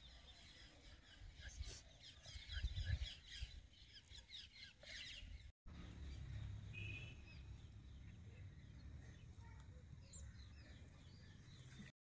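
Faint birds chirping in quick little series, with quiet low rustling.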